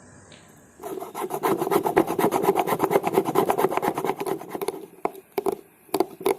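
Rapid back-and-forth hand rubbing with an abrasive on the knife being made, about eight to ten strokes a second, then a few slower, separate strokes near the end.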